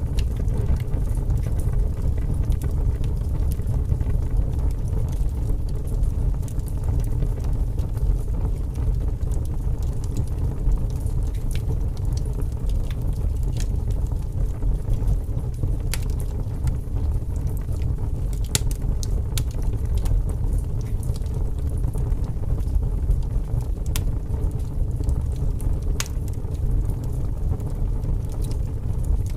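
Wood fire burning in a fireplace: a steady low rumble of flame with scattered sharp crackles and pops, the clearest a few seconds apart in the second half.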